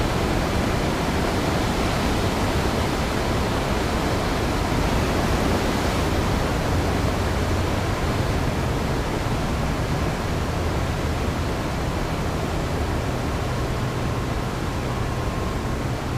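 Steady rushing of the Iguazu Falls' water, a dense even noise with no breaks; from about halfway in a low hum rises underneath.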